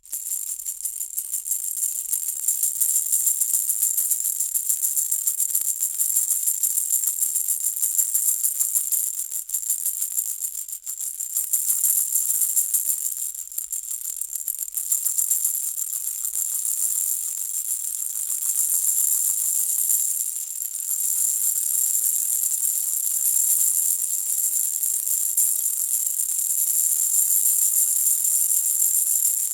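Hanging baby rattle shaken continuously, a bright, high jingling with rapid, uneven pulses of loudness.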